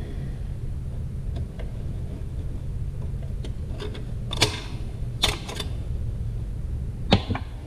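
Sharp metal clicks and clinks of hand tools against the internal parts of a Ford E4OD automatic transmission's overdrive section as it is taken apart: a few strikes about four and a half, five and seven seconds in, over a steady low hum.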